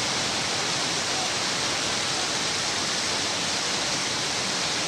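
Heavy rain pouring with a steady, even hiss.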